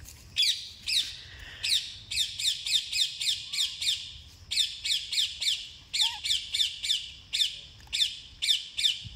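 A bird calling: a rapid series of sharp, high chirps, each falling in pitch, about four a second in runs with short breaks.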